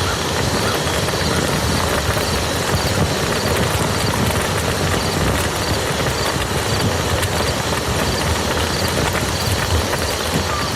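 Steady, heavy rain pattering on a muddy field: a dense, even hiss of drops.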